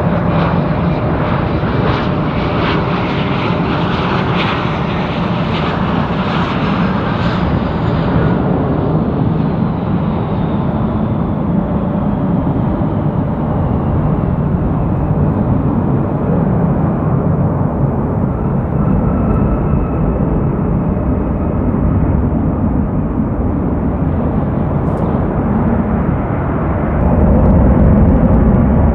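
Jet airliner on final approach passing close by: a loud, steady engine roar with whining tones that fall in pitch over the first several seconds, the high part fading as it moves away. The roar grows louder again near the end.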